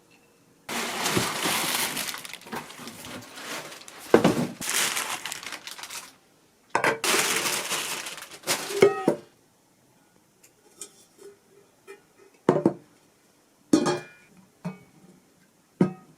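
Kitchen work sounds: two stretches of steady rushing noise, then a few sharp knocks and clinks of dishes and utensils.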